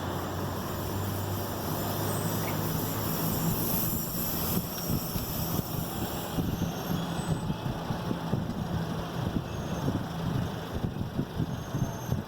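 2011 Ford Edge being driven, heard through an open window: steady tyre and engine noise with a low hum, and from about four seconds in a run of irregular low knocks. This is the front-wheel noise being chased, which carries on whether the brake is pressed or the car accelerates.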